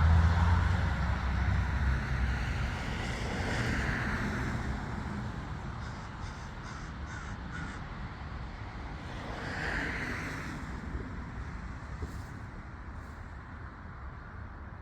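A large flock of crows cawing as it flies over, many overlapping caws merging into a continuous din that swells twice and slowly grows fainter. A low rumble, like a passing vehicle, fades out in the first second or two.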